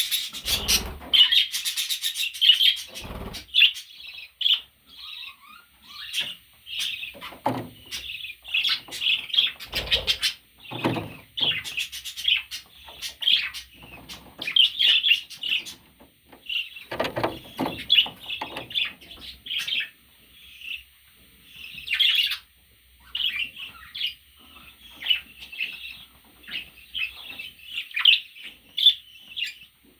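Budgerigar chattering: a near-continuous string of short, high chirps, broken by a few knocks and rustles.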